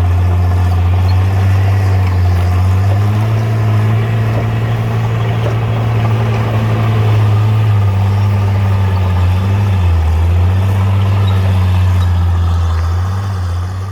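Bulldozer's diesel engine running steadily with a deep hum, its note rising slightly about three seconds in and sagging briefly around ten seconds before picking back up.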